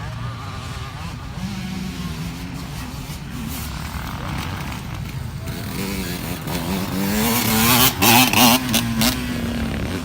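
Motocross motorcycle engines running. The engine note climbs and grows louder from about six seconds in, is loudest around eight seconds, then eases off.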